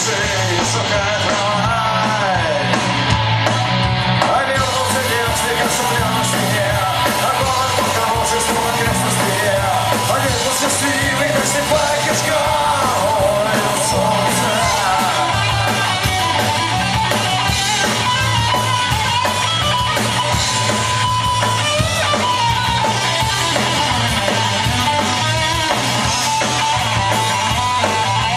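Live punk rock band playing loud, with electric guitars, bass and drums and a singing voice in the mix.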